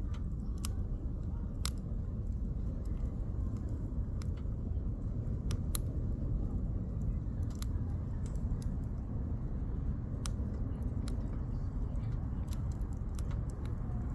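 Firewood burning in a campfire, crackling with sharp, irregular pops over a steady low rumble.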